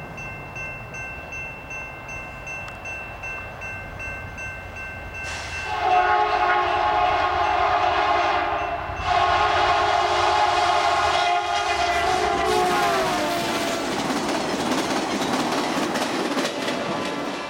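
A level-crossing bell rings. About five seconds in, a passenger train's diesel locomotive horn sounds a long blast, breaks briefly, then sounds a second long blast that drops in pitch as the locomotive passes. The train then clatters past.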